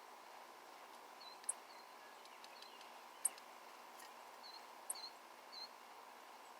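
Songbirds calling: scattered, very brief high-pitched notes, three of them sharper and louder, mixed with short swooping chirps.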